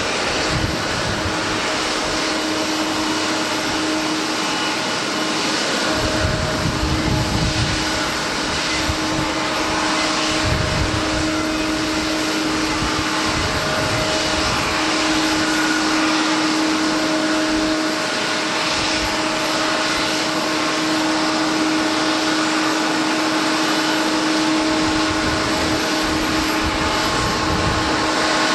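Jet airliner's engines running loud and steady, with a steady droning tone under the roar. Wind buffets the microphone in low gusts, several times.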